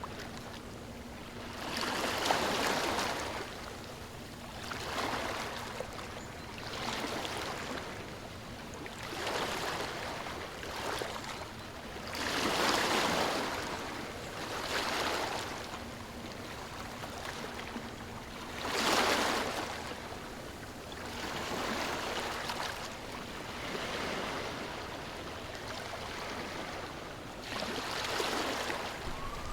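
Ocean waves washing onto a shore, each swell rising and falling every two to three seconds, with the biggest breaking about 2, 12 and 19 seconds in.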